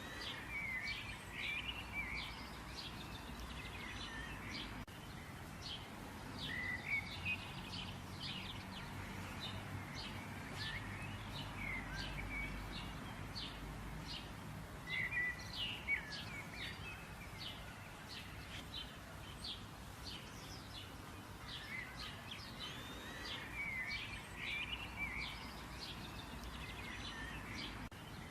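Many small birds chirping and twittering, short calls following one another in quick succession, over a steady low background rumble.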